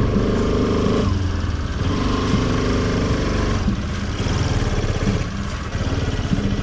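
A motor vehicle engine running steadily at low revs, idling.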